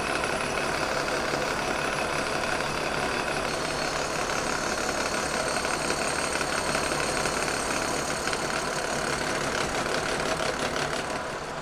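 Kearney & Trecker 2HL horizontal mill running a cut on a cast iron casting with an insert cutter under power feed: a steady machining sound of the spindle and cutter working through the iron. The level drops a little near the end.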